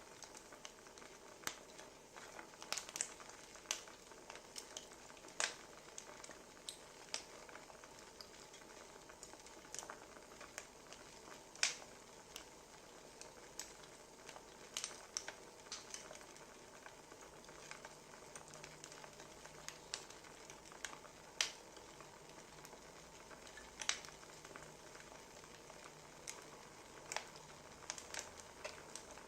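Wood fire crackling: a faint steady hiss broken by irregular sharp pops and snaps, a couple of louder ones standing out.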